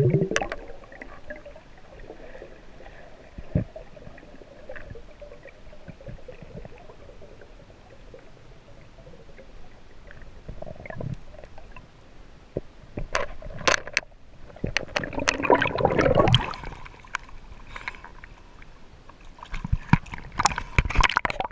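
Water gurgling and bubbling with scattered clicks, typical of an action camera recording in the water during a free dive. A louder stretch of bubbling comes about fifteen seconds in, and a run of sharp clicks near the end.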